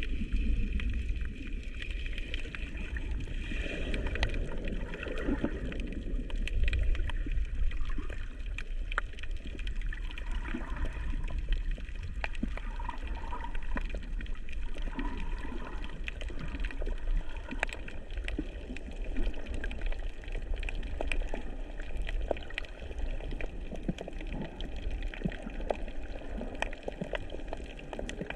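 Water heard through an underwater action camera: a continuous muffled wash and gurgle with a low rumble, dotted with many small clicks.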